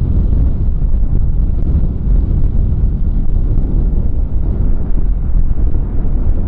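Strong gusty wind buffeting the microphone: a loud, steady low rumble that rises and falls.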